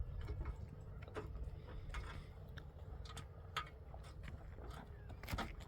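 Scattered light clicks and knocks over a low rumble that fades after the first second or two, the clicks coming closer together near the end.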